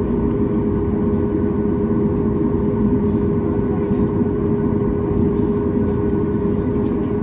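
Jet engines of a Boeing 737 MAX 8 (CFM LEAP-1B turbofans) running, heard from inside the passenger cabin: a loud, steady engine noise with a constant hum.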